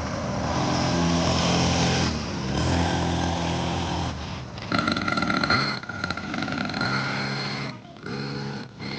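Small dirt bike engine running, its pitch rising and falling as the throttle changes, loudest about five seconds in.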